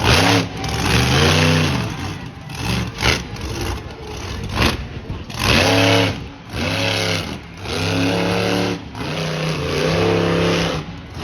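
Monster truck engine revving hard in repeated bursts, about six times, its pitch climbing and dropping with each blip of the throttle, with a quieter gap between about two and five seconds in.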